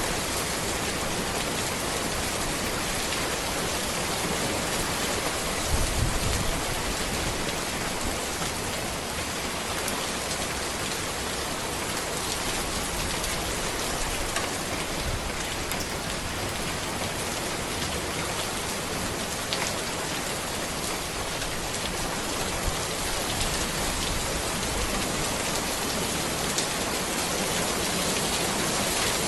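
Steady rain falling on a road and surrounding trees, a dense even hiss of drops with a brief low thump about six seconds in.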